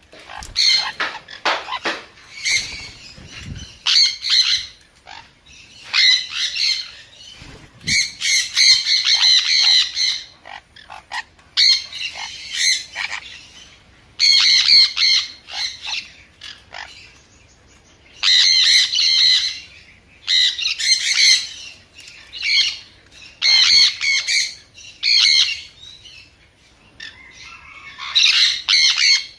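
Sun conure calling loudly in repeated high-pitched screeches. The calls come in bursts of one to two seconds with short gaps, and the longest unbroken run comes about eight seconds in.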